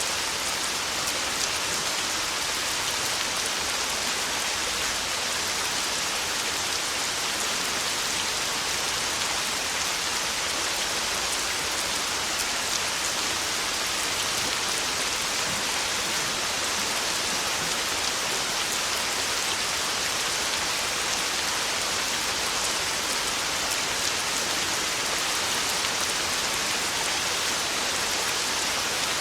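Heavy rain drumming steadily on a tin roof: a dense, even hiss of countless fine drop hits, with no thunder.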